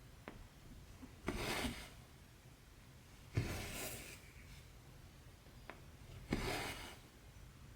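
Embroidery thread being drawn through cross-stitch fabric by hand: three rasping pulls, each about half a second long and coming every two to three seconds, with faint ticks of the needle piercing the fabric between them.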